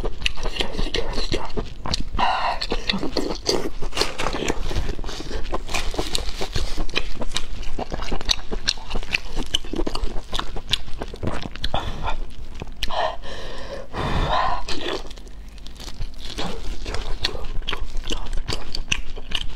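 Close-miked eating sounds: chewing, biting and wet mouth clicks as braised food is eaten, with louder, longer mouthy smacks about two seconds in and again around thirteen seconds in.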